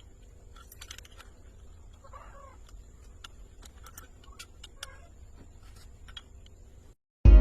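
Faint background with a steady high-pitched whine and low hum, scattered light clicks, and a brief wavering animal-like call about two seconds in.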